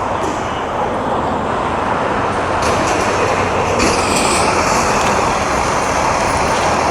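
Loud, steady engine and road noise of a fire apparatus driving by, with no clear siren or horn tones.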